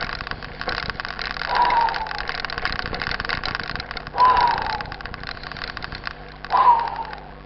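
Mountain bike ridden over a rough trail: a steady, dense rattle of quick clicks and clatter. A short tone that falls slightly in pitch recurs about every two and a half seconds, three times in all.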